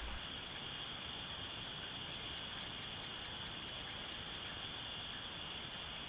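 Night insects, such as crickets, keeping up a steady, unbroken high-pitched chorus.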